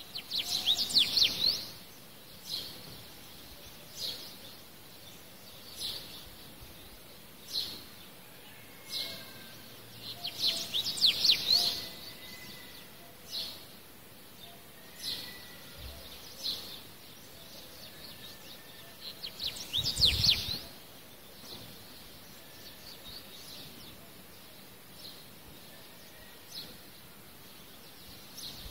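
Small songbird chirping: short single chirps every second or two, broken by three louder bursts of rapid twittering, over a steady low hiss.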